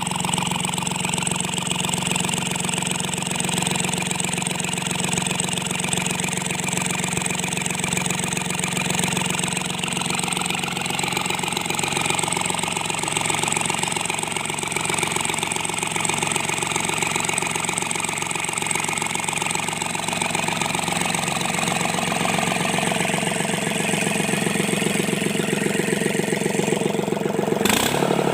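Sunshine L1-255 tractor's D1462-TV diesel engine running steadily at idle after its valve seats and piston rings were replaced to cure a noise problem. Its speed shifts slightly about a third of the way in and changes again right at the end.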